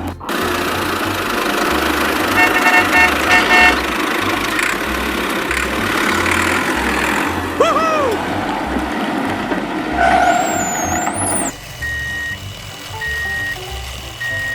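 A motor vehicle running loudly, with four short horn-like beeps about two and a half seconds in, over background music with a steady bass beat. About eleven seconds in the vehicle noise stops and only lighter music is left.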